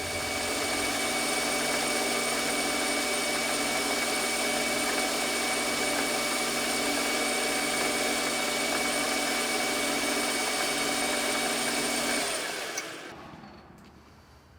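Metal lathe running steadily under power through a turning pass on a brass part, then switched off about twelve seconds in and winding down to a stop.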